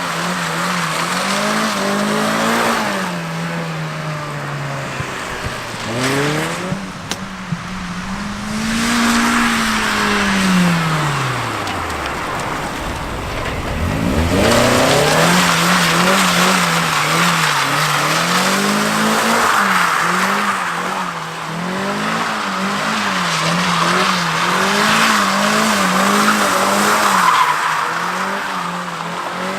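Mazda MX-5 Miata's four-cylinder engine held at high revs while drifting, the revs rising and falling again and again. About twelve seconds in the revs fall away almost to nothing, then climb back. Under it runs a steady hiss of the tyres skidding on the rain-wet road.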